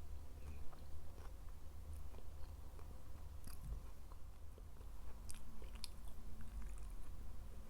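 Close-miked mukbang eating: chewing and biting with scattered crisp crunches and small wet mouth clicks, over a steady low hum.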